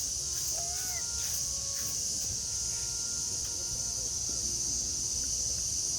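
A steady, high-pitched drone of tropical forest insects over a low background murmur, with a few faint, short calls in the first couple of seconds.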